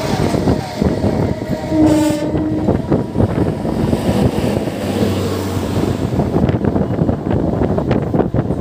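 Passenger train running on the rails, heard from inside a coach at an open door: steady rumble and wheel noise. A train horn sounds once, about two seconds in, for about a second. Sharp clicks of wheels over rail joints stand out in the second half.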